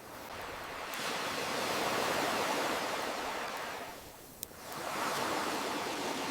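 Ocean waves washing in, two surges swelling and fading with a lull between them, and a few sharp crackles from a wood campfire. The clearest crackle falls in the lull.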